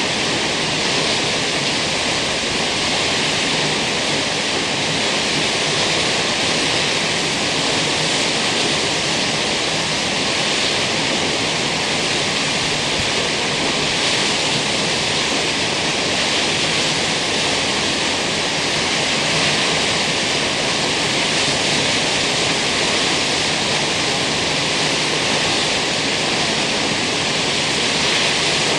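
Steady rushing of water from Kegon Falls, a tall plunge waterfall, pouring without a break.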